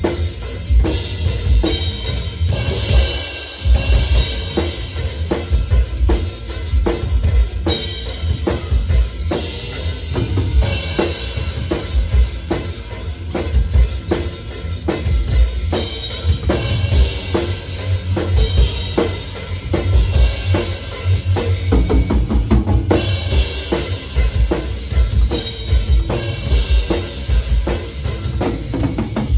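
Drum kit played hard and fast, with rapid bass-drum strokes under snare hits and ringing cymbals.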